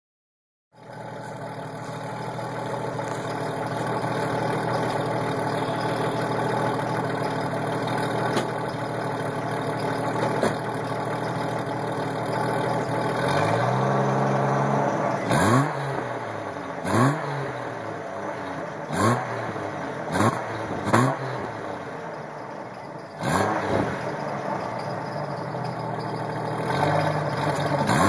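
1993 Jeep Cherokee 4.0 L inline-six running through a Flowmaster 40 series exhaust, idling steadily for the first half. It is then revved once and blipped about six times in quick succession, each rev rising sharply and dropping back to idle, with another rev starting near the end.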